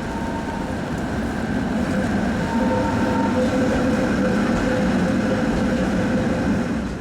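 Machinery running steadily: a low rumble with a thin steady whine, growing louder about two seconds in.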